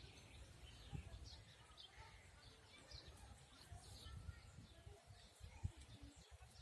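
Faint birdsong from several small birds, short high chirps and twitters scattered throughout, over a low rumble with a couple of soft thumps.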